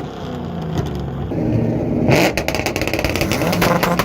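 A car engine running and revving, with a sudden louder burst about two seconds in followed by rapid crackling.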